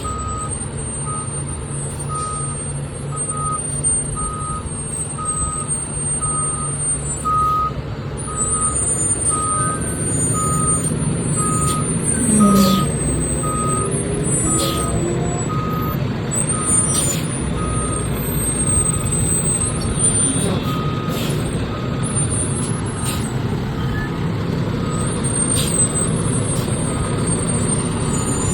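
Fire truck backing up: its reversing alarm beeping steadily, about three beeps every two seconds, over the diesel engine's low rumble, with a few short sharp clicks and hisses.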